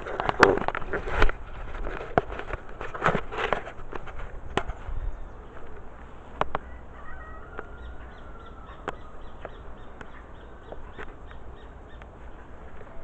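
Wood and brush of a bonfire crackling and popping as the fire catches. Dense sharp pops over the first few seconds thin to scattered ones.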